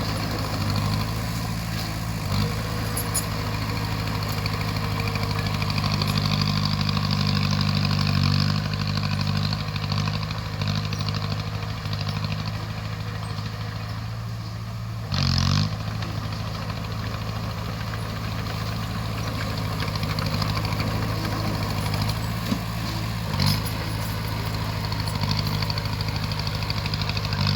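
A bulldozer's diesel engine running steadily, with a short louder burst about halfway through and a brief sharp sound near the end.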